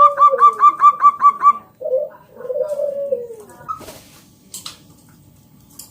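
Zebra dove (perkutut) cooing: a fast run of short, repeated higher notes over lower coos that curve downward, then a second coo phrase about two seconds in. After that only faint scattered clicks remain.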